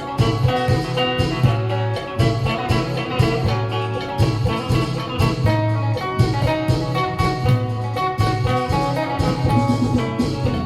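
Isan phin, the plucked lute of northeastern Thailand, playing a busy melody over a drum beat and a low bass line.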